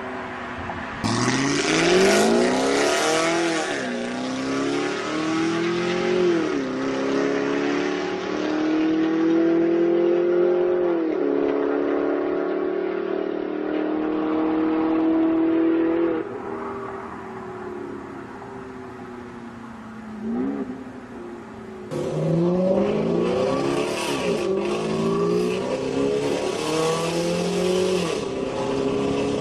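Supercharged V8 of a BMW Alpina B7 (E65), breathing through a Kreissieg F1Sound valvetronic exhaust, accelerating hard through the gears: engine pitch rises, drops at each upshift, and climbs again. It eases off for several seconds past the middle, then pulls hard through the gears once more near the end.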